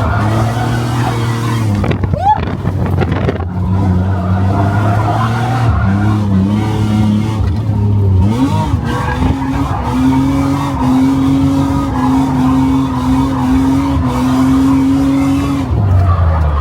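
Car drifting: its engine is held at steady high revs with tyre squeal, and the revs drop and climb again a few times.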